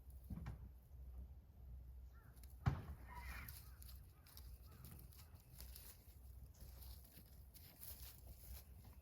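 Quiet outdoor ambience with low hum, broken by one sharp knock about a third of the way in, a few faint clicks and brief faint chirps.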